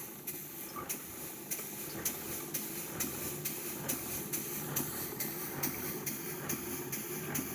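Model steam beam engine running under steam: the exhaust beats evenly about twice a second over a steady hiss.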